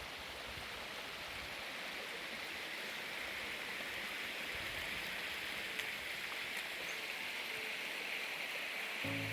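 Creek water flowing over rocks, a steady even rush that grows slightly louder through the stretch. A low steady hum comes in at the very end.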